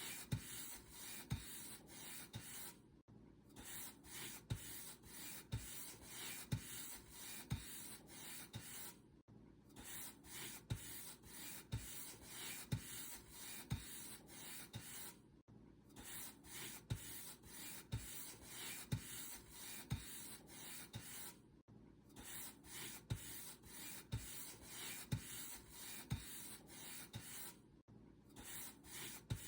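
Paint brush bristles stroking across a surface, a soft rhythmic rubbing at roughly one stroke a second, each with a faint low knock. Brief breaks in the sound come about every six seconds.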